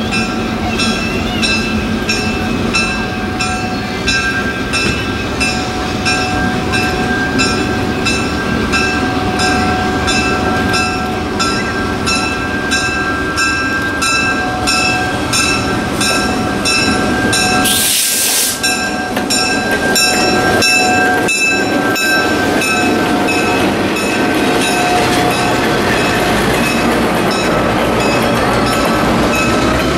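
EMD GP10 diesel locomotive passing slowly with its passenger cars, engine running, with a steady squeal from the wheels and regular clicks of wheels over rail joints. A short hiss sounds about eighteen seconds in.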